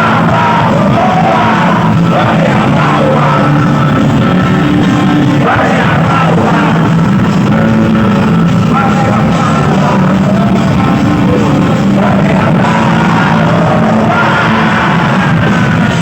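Live rock band playing loudly, with voices singing over it.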